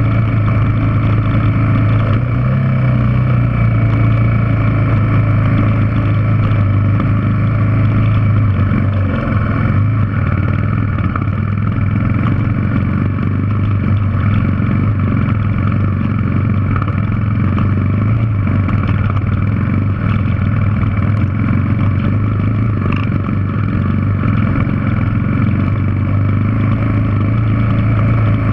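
Yamaha TW200's single-cylinder four-stroke engine running at a steady pitch as the dirt bike climbs a rocky trail, with small shifts in pitch about two and nine seconds in.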